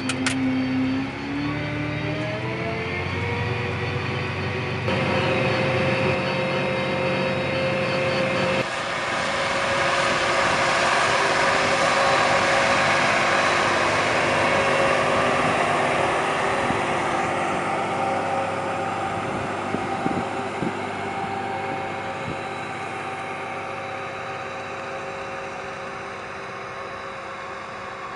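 John Deere 7280R tractor's diesel engine running while pulling a big plough. Its note rises in pitch over the first few seconds, then holds steady. It grows louder through the middle and fades toward the end.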